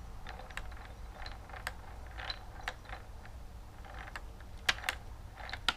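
Light metallic clicks and ticks of a motorcycle gearbox being turned and shifted through its gears by hand, with a few sharper clicks near the end.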